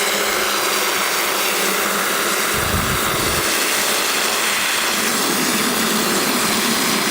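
Water from a garden hose running steadily into a bucket of car-wash soap solution, a constant rushing hiss as the bucket fills and the soap foams up. A brief low rumble comes about three seconds in.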